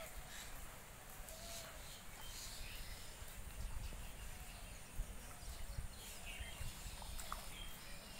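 A few faint bird calls, short rising-and-falling notes and a couple of sharp chirps near the end, over a low rumble with a couple of soft knocks.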